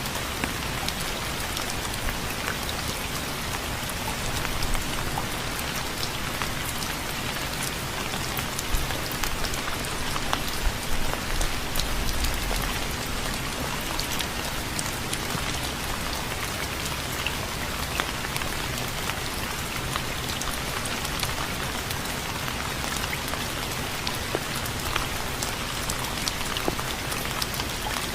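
Steady rain falling on a surface, a dense hiss of drops with scattered louder individual drips and a brief low rumble about twelve seconds in.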